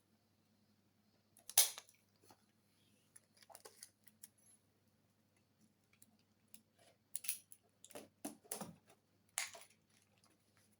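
Intermittent handling noises of work on a model airplane's covering: scattered short rustles, clicks and scrapes, the sharpest about one and a half seconds in and a busier run near the end, over a faint steady low hum.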